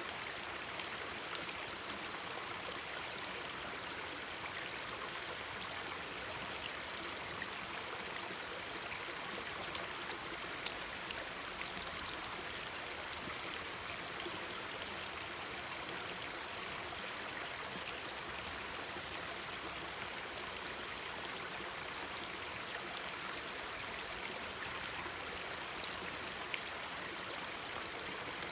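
Mountain stream babbling steadily, with a few sharp pops and crackles from a wood campfire, the loudest around the middle.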